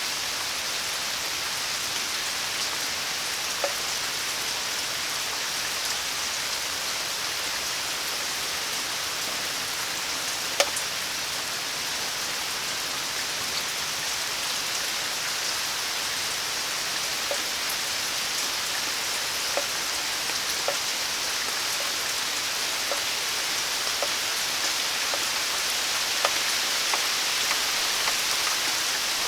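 Steady rain falling, an even hiss of drops on surfaces, with now and then a single sharper drip striking close by.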